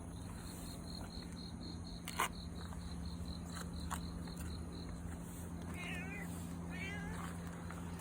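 Cat meowing twice, two short calls about six and seven seconds in, with a sharp click about two seconds in.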